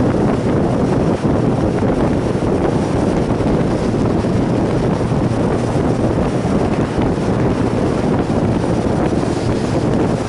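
A motorcycle ridden at steady speed, heard from an onboard microphone: heavy wind noise on the microphone over a steady low engine hum that holds one pitch.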